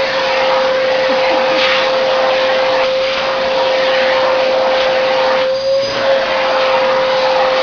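Vacuum cleaner running steadily, a constant whine over rushing air, as its nozzle is worked over a cat's fur; the air rush thins briefly about five and a half seconds in.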